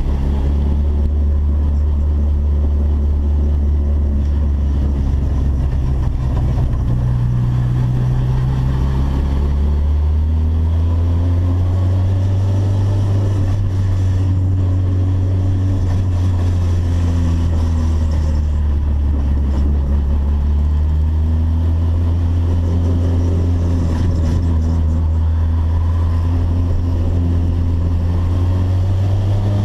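Turbocharged Volkswagen Gol's engine running steadily under light load, its pitch drifting slightly up and down. Near the end the pitch starts to rise as it begins to accelerate.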